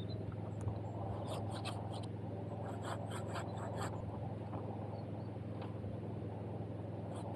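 Short scratching and rubbing sounds in two quick runs, about a second in and again around three seconds in, over a steady low hum.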